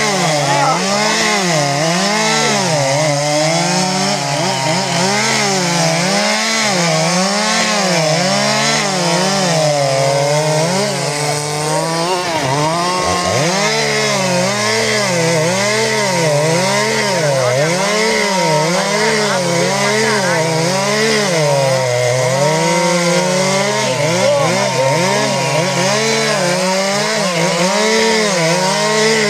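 Two-stroke chainsaws cutting through wood, more than one running at once. Engine pitch keeps dipping and rising about once a second as the chains bite into the cut and free up.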